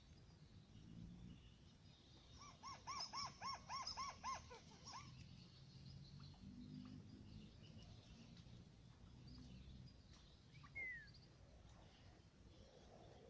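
White-browed crake calling: a quick series of about eight repeated rising-and-falling notes lasting around two and a half seconds, starting a little after two seconds in.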